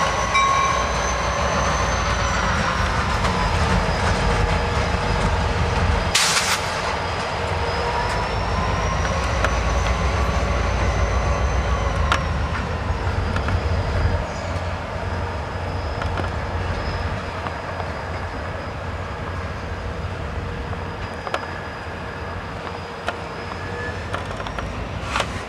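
Freight train rolling slowly past through the rail yard: steady rumble and clatter of the cars on the track, with wheels squealing in thin wavering tones. A brief burst of noise about six seconds in.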